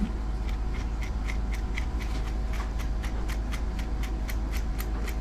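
Quick, even strokes of a grooming brush through a puppy's coat, about four strokes a second, over a steady low hum.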